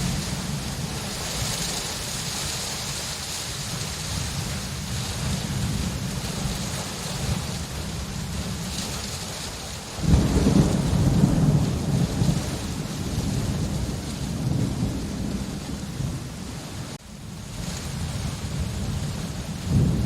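Steady rain in a thunderstorm with rolling thunder underneath; about halfway through, a loud crack of thunder breaks in and rumbles on for several seconds, and another begins right at the end.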